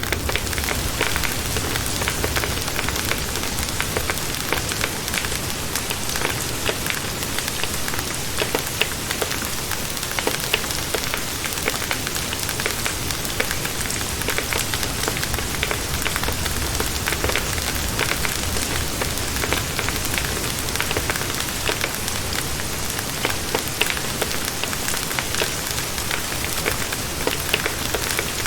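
Steady rain falling, with a campfire crackling under it in many small sharp clicks.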